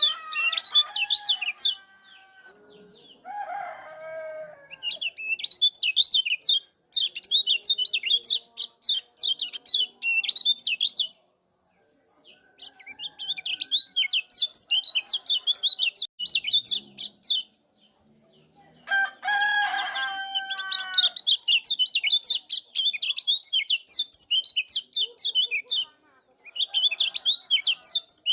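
Kecial kuning (yellow white-eye) calling in phrases of rapid, high 'ciak' chirps a few seconds long, separated by short pauses. Twice, a lower, drawn-out call from another bird sounds beneath the chirping.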